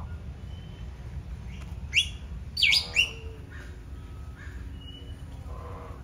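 Birds calling: three loud, sharp calls that sweep down in pitch, in quick succession about two to three seconds in, with fainter calls around them over a steady low rumble.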